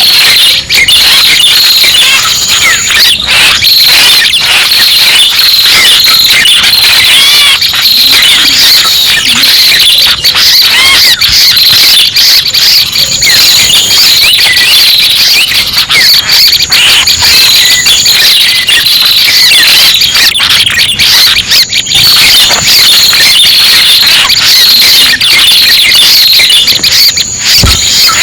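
Lure recording of red-headed prenjak (prenjak pala merah) calls, played loud: dense, rapid high chirps and trills repeating without a break, with a thin high whistle coming and going.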